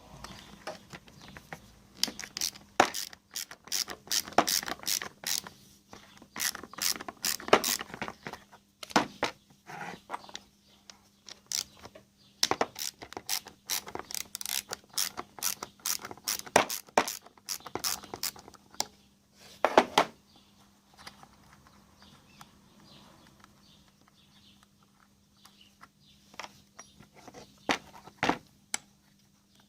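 Ratchet wrench clicking in quick runs as the 10 mm bolts holding the cylinder head of a Mercedes Airmatic air-suspension compressor are undone, with a few metal clinks. The runs come in two main bursts, then thin out to scattered clicks.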